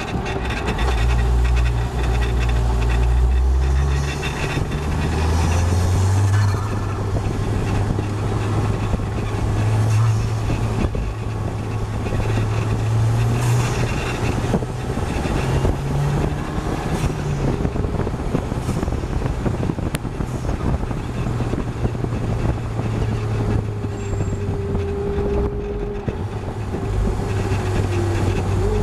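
Onboard sound of a KTM X-Bow's turbocharged four-cylinder engine driven hard on track, the revs climbing and dropping back several times with gear changes, over steady wind and road noise in the open cockpit.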